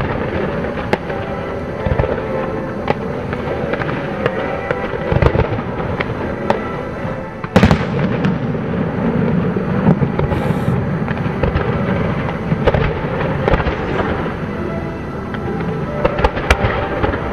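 Fireworks display: aerial shells going off in repeated booms and crackling bursts, with one loud sharp bang about halfway through.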